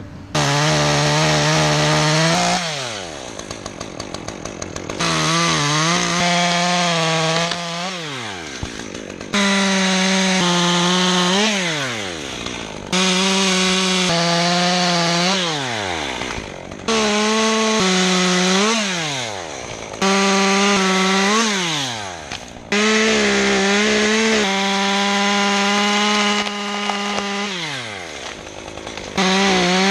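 Two-stroke chainsaw cutting wood in a series of short cuts: the engine snaps up to full throttle about eight times, holds a steady high pitch under load for a few seconds, and falls back to idle after each cut.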